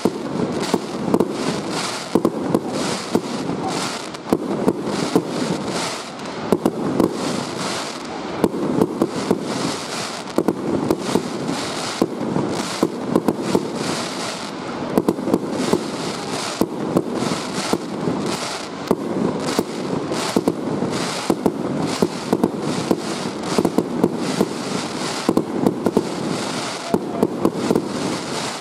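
Aerial fireworks going off in rapid succession: a continuous run of bangs, several a second, over a rumbling bed of reports.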